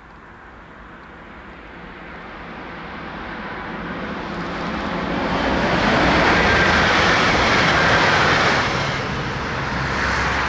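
Bombardier Aventra class 701 electric multiple unit approaching and passing at speed. The rolling noise of wheels on rail builds steadily, is loudest as the coaches go by, then eases a little.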